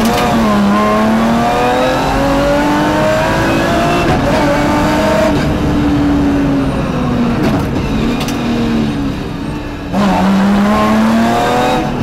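BMW rally car's engine heard from inside the cabin under hard acceleration: its pitch climbs for about five seconds, sinks as the car eases off, then climbs sharply again about ten seconds in. A few sharp knocks come through the body along the way.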